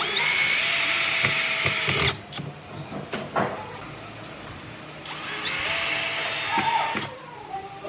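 A power drill run in two bursts of about two seconds each, a few seconds apart, its high whine rising as the motor spins up, with a few light knocks between the bursts.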